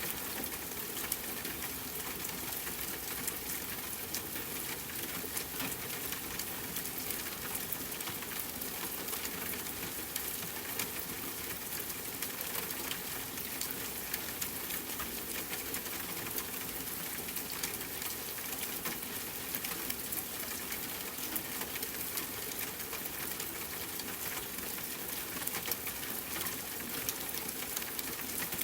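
Steady rain on a tent, mixed with a crackling campfire: an even hiss with many small, sharp ticks and pops scattered through it.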